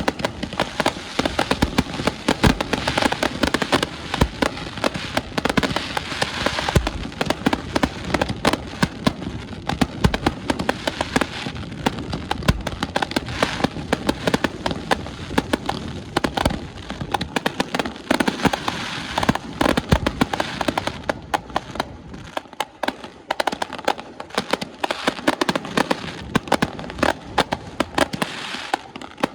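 Fireworks display: a dense, continuous barrage of crackling pops and bangs, with heavier booms here and there.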